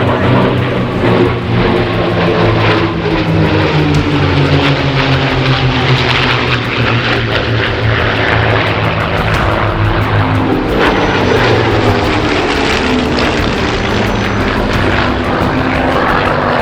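Piston-engined propeller aircraft flying past, its engine drone dropping in pitch as it goes by; the note rises and falls again about two-thirds of the way through as a pass repeats.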